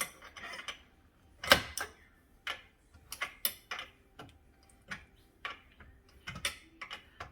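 Irregular clicks and knocks of tools and metal parts being handled while disconnecting a dishwasher, about a dozen in all, the loudest about one and a half seconds in.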